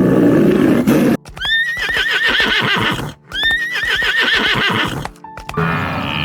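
Horse whinnying twice, each call a high neigh with a quavering pitch that falls and shakes for nearly two seconds. In the first second, before the neighs, there is the tail of a rough, low roar.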